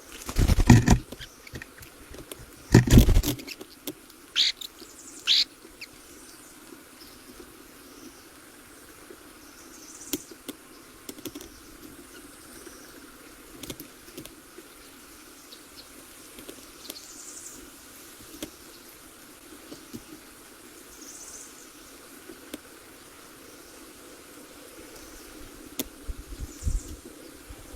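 Two loud rustling bursts near the start, then two short high bird chirps about four and five seconds in. Faint high calls come now and then over a steady insect-like drone.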